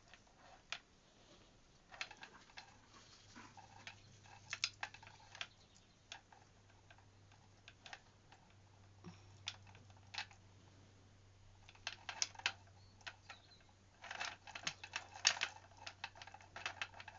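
Beads and small craft pieces clicking and tapping against each other and the table as they are handled, in irregular bunches that grow dense near the end.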